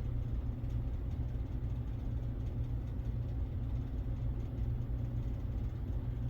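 Desktop gaming PC running just after power-on with its fans and power supply spinning, a steady low hum while it waits to complete its first POST on a newly fitted motherboard.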